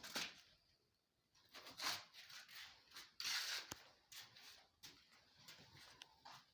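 Rustling and soft clicks of objects being handled at close range, in irregular bursts with a longer rustle about three seconds in.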